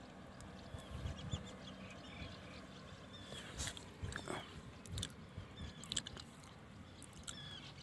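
Small birds chirping in short, irregular calls, with a few scattered sharp clicks and taps and a faint low hum that fades out in the first few seconds.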